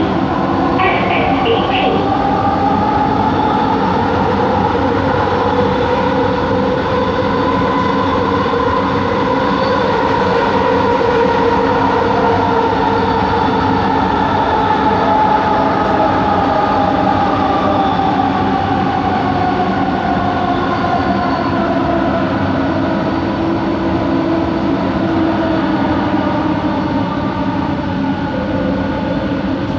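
Inside a Bombardier Innovia ART 200 train car, the linear induction motor whines over the rumble of the running train. The whine is several pitched tones that climb over roughly the first ten seconds, hold, then slide down through the second half, the unusual motor noise this train is known for.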